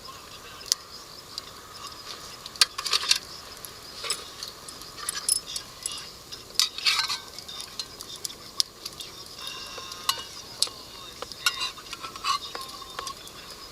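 Cooking utensils clinking and scraping against cookware in irregular sharp clicks, over a steady faint hiss.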